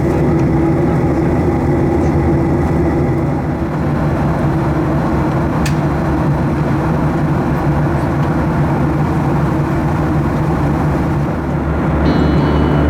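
Steady cabin noise of a Boeing 737-800 in flight: an even, continuous rumble of its CFM56-7B engines and the airflow, with one faint click about six seconds in.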